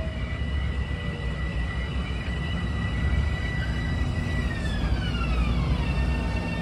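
Electric commuter train running with a low rumble and a high, multi-toned whine from its traction motors. The whine holds steady, then falls smoothly in pitch over about a second and a half near the end as the train slows.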